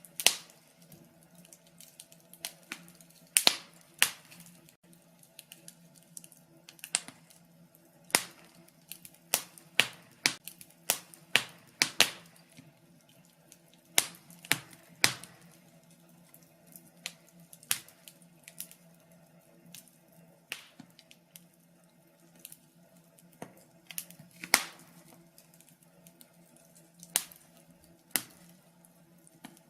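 Wood fire crackling in a fireplace: irregular sharp pops and snaps, sometimes several close together, a few much louder than the rest, over a faint steady low hum.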